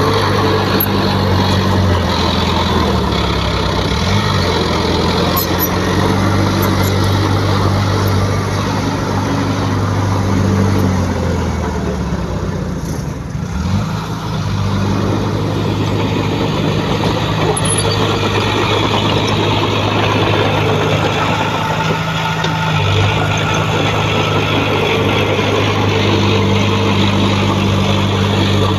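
Heavy diesel engine of earthmoving machinery running steadily. Its pitch shifts a few times as engine speed changes, and it is briefly quieter about 13 seconds in.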